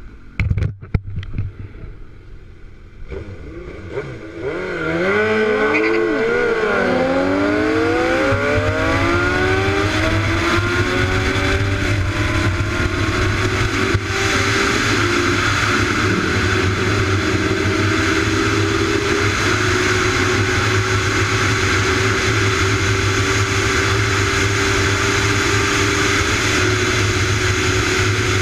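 A vehicle engine accelerating hard, its pitch climbing through several gear changes and then holding steady at speed, under heavy wind and road noise. A few sharp knocks come about a second in.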